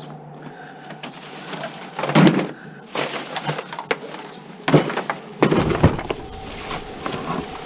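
A series of clattering knocks and scrapes as junk and garbage are handled and tossed about, with a few louder thuds in the middle.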